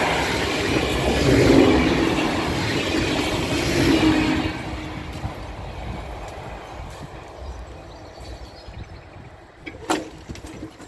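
Regional passenger train running past at close range, its rolling and running noise loud for about the first four seconds and then fading away as it leaves. A single sharp click near the end.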